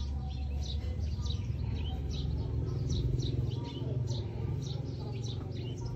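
Small birds chirping, a quick string of short, high chirps several times a second, over a low steady hum.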